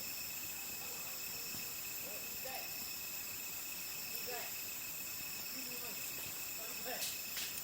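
Crickets chirping in a continuous high-pitched chorus of several steady tones, with two faint clicks near the end.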